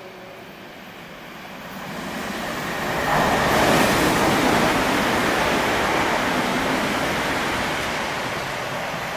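Great Northern electric multiple-unit train passing through the station. The rush of wheels on rail swells to a peak a few seconds in, then slowly dies away as the train draws off.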